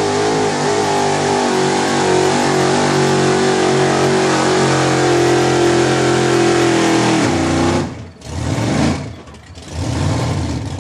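Pulling truck's engine held at high revs under full load while dragging the pulling sled, its pitch holding nearly steady. About seven and a half seconds in the engine note cuts off sharply, and it is revved briefly twice more as the pull comes to an end.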